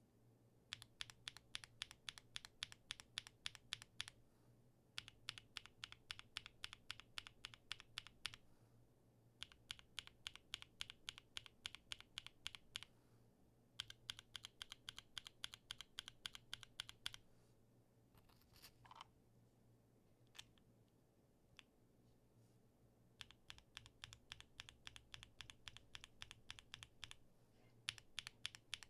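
Typing on a custom mechanical keyboard with tactile switches in a POM plate: runs of rapid key clacks lasting a few seconds each, separated by short pauses. A brief, different sound with a rising pitch comes in a pause about two-thirds of the way through.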